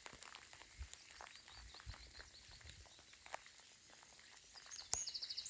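Soft rain with scattered, irregular drop ticks, and a bird's brief, rapid high trill near the end.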